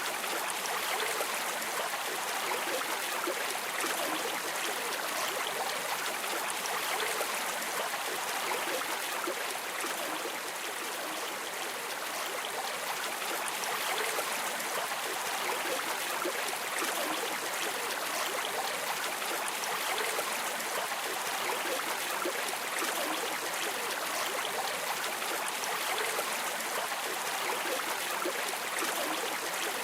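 Flowing stream water, a steady, even rush and babble with no breaks.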